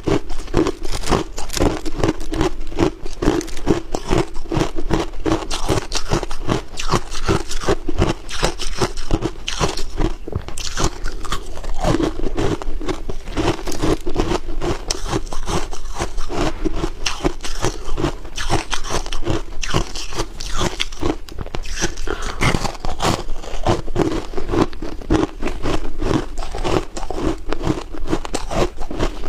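Ice being bitten and chewed: a dense, continuous run of crunches and cracks with no pauses.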